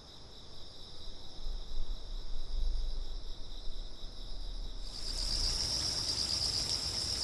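A chorus of insects, crickets among them, chirring in a continuous high-pitched pulsing trill. About five seconds in it becomes denser and brighter.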